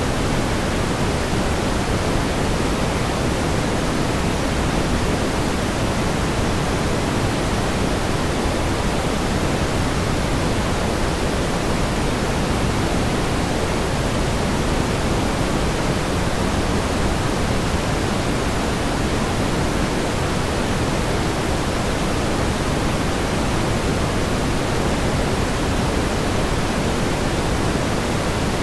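Steady pink noise: an even hiss, fuller in the lows than in the highs, with no changes or events.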